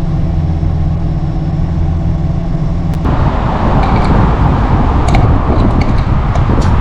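Nissan Skyline 'Kenmeri' engine running with a steady hum. About three seconds in the sound changes abruptly to a louder, rougher rumble of engine and road noise, with a few light clicks.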